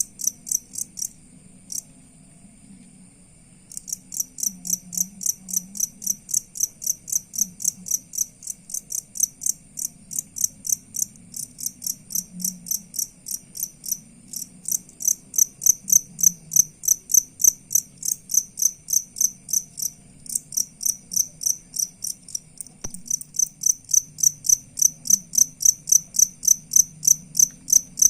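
Cricket chirping in an even, repeating pulse of about three chirps a second, with a pause of a couple of seconds near the start; a fainter steady high trill runs behind it.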